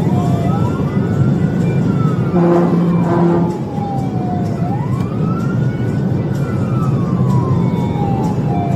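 Police siren on a wail, sweeping slowly up and down about once every four seconds, over the steady drone of the pursuing patrol car at speed. About two and a half seconds in come two short horn blasts.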